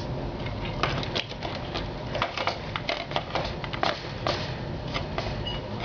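Computer keyboard being typed on fast, a quick, irregular run of key clicks over a low background hum.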